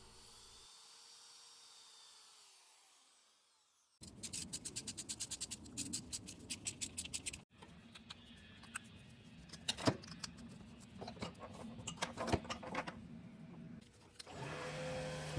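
Tool work on a motorcycle engine: a run of rapid, even clicks for about three seconds, then scattered clicks and knocks. Music comes back near the end.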